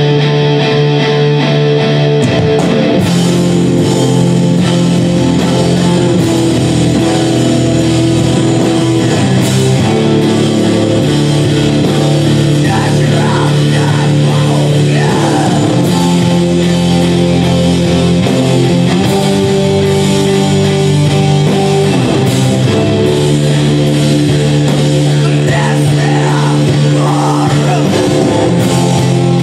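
Live rock band playing loud, heavy music: distorted guitar chords held for a few seconds each, with a voice singing at times.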